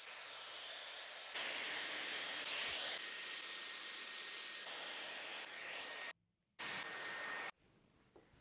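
Dyson hair styler blowing air through hair: a steady rushing hiss with a faint high motor whine, in stretches that change level abruptly, with a brief break about six seconds in and a stop near the end.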